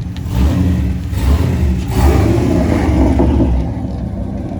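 Loud car engine running and revving, a deep rumble that swells about half a second in and again around two seconds, then eases off.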